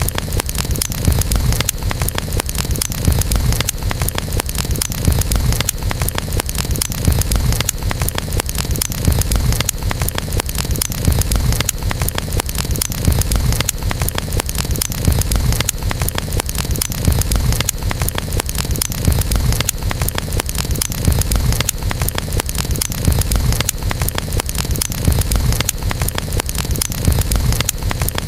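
Wood campfire crackling continuously with many small clicks, over a steady low rumble.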